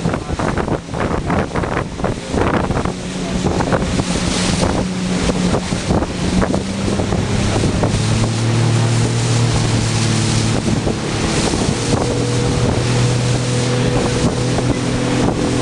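Motorboat engine running, its hum growing stronger and steadier about halfway through, over wind buffeting the microphone and water splashing against the hull.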